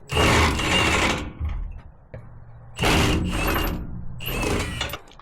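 Rotted wood and debris being scraped out of an old pickup's bed: three long, rough scrapes, the first near the start and two more from about three seconds in.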